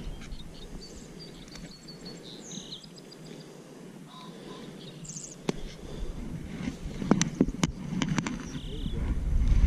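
Quiet outdoor background with faint, short bird chirps. A quick cluster of sharp clicks comes about seven to eight seconds in, and a low rumbling noise on the microphone rises near the end.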